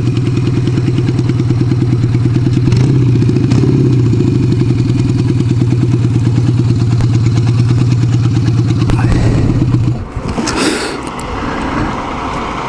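1975 Kawasaki KZ400S's parallel-twin engine idling steadily, then shut off about ten seconds in, followed by a brief burst of rustling, hissy noise.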